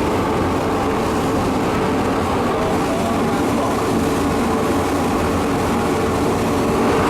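Biomass sawdust burner running: a steady, loud mechanical roar with a low hum underneath.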